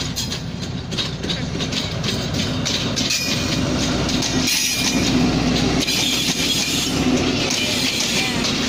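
Passenger train's coaches rolling past close by, their wheels clattering over the rail joints, getting louder as it goes.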